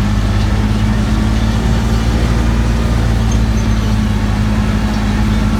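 Engine of a tourist road train running steadily, a constant low drone with no change in speed.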